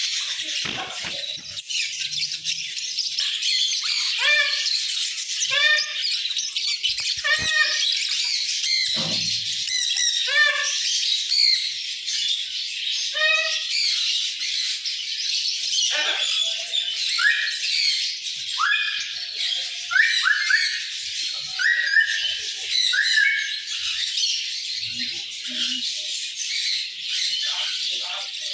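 A crowd of lovebirds chattering in dense high chirps throughout, with louder squawking calls repeating every second or so on top.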